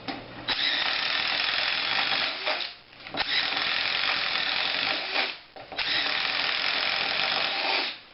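DeWalt DCF885 20V MAX 1/4 inch impact driver boring with a 1/2 inch paddle bit, run in three pulls of about two seconds each. The clicking is its impact hammer, engaged automatically once the load reaches the clutch's preset limit.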